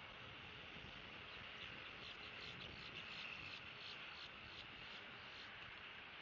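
Steady wind hiss on an outdoor nest-cam microphone. From about a second in, a faint rapid series of high chirps repeats several times a second.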